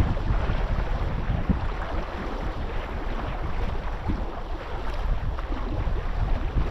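Wind buffeting the microphone in uneven gusts, over a steady rush of moving sea water.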